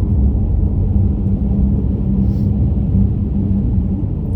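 Steady low road and engine rumble of a car driving along, with a steady low hum in it.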